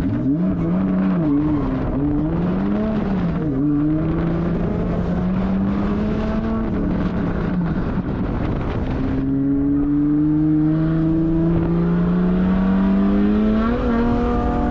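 Drift car's 1.5JZ turbocharged straight-six running hard, its revs swinging up and down repeatedly for the first half. About halfway through the sound changes, and the revs then climb in one long, steady rise with a brief blip near the end.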